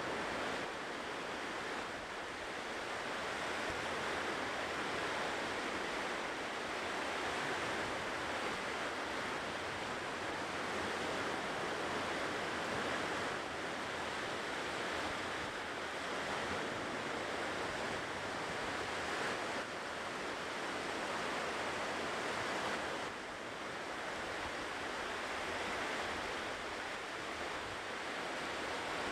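Ocean surf washing on a shore: a continuous rush of breaking waves that swells and eases slowly, with a brief lull about 23 seconds in.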